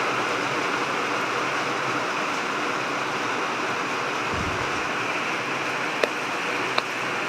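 Heavy rain falling as a steady hiss, with a brief low thud about halfway and a few sharp drip taps near the end.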